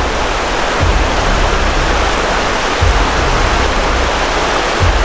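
Waterfall rushing steadily, with a low rumble swelling about every two seconds.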